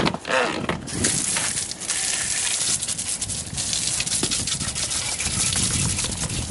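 Soft-bristled wheel brush scrubbing a soapy truck wheel, a steady rapid back-and-forth rubbing that begins about a second in after a brief clatter.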